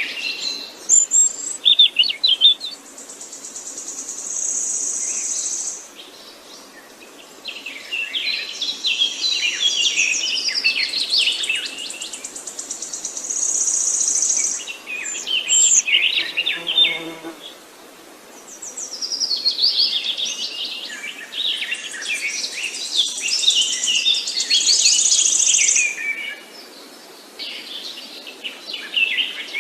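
Several songbirds chirping and singing in overlapping bouts, with quieter gaps between them. A high, even buzzing trill comes and goes in stretches lasting a few seconds.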